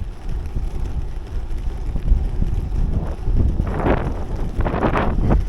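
Wind buffeting the microphone: a steady low rumble, with two louder noisy surges about four and five seconds in.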